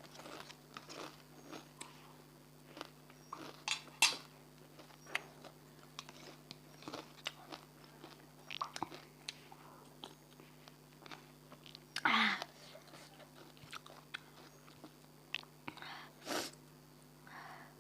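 Close-miked eating: irregular bites and chewing with crunching, the loudest bites about 4 and 12 seconds in, over a steady low hum.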